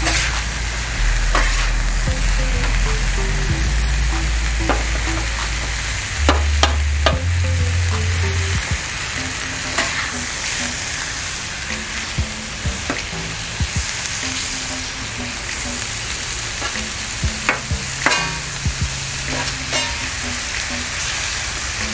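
Sliced ribeye sizzling on a hot Blackstone steel flat-top griddle. A metal spatula clicks and scrapes against the griddle plate again and again as the meat is spread and turned.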